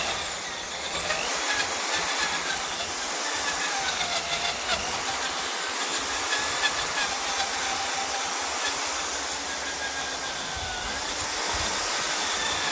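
Power-driven wire brush wheel running and scrubbing surface rust off steel nuts and bolts: a steady harsh noise over the motor's whine, which dips in pitch for a moment a few times as the parts are pressed against the wheel.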